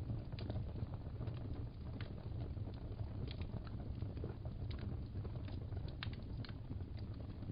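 Wood fire crackling: scattered sharp pops and snaps, a few a second, over a steady low rumble of the flames.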